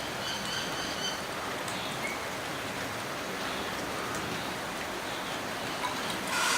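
Steady rain falling, an even hiss of drops. Faint high chirps sound briefly in the first second.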